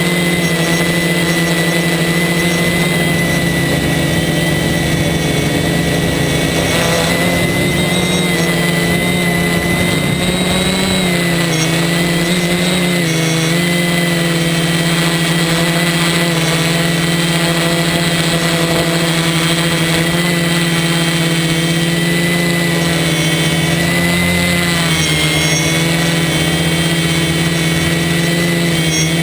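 Electric motors and propellers of a DJI F450 quadcopter in flight, a steady drone with a pitch that shifts a little about a third of the way in and again near the end as the throttle changes.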